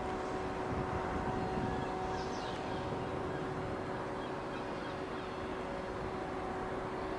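Airbus A400M Atlas's four turboprop engines droning steadily overhead, a hum of steady tones over a rushing noise. A small bird chirps briefly about two seconds in.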